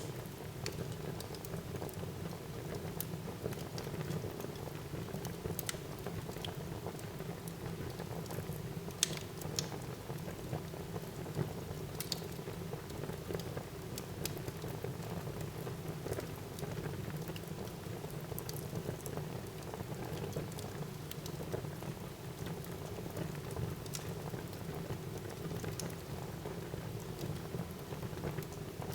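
Wood fire burning in a fireplace: a steady low rush of flames with scattered sharp crackles and pops, a louder pop about nine seconds in.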